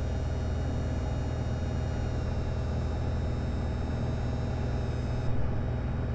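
Cabin drone of a single-engine piston plane's engine and propeller during landing-gear extension. Over it runs a thin high whine from the landing-gear motor, which cuts off about five seconds in with a short thump as the gear reaches down and locked.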